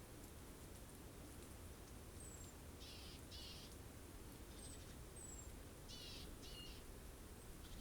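Faint bird calls: pairs of short, buzzy high calls, and a few thin, very high notes that slide down in pitch, over a low steady background hum.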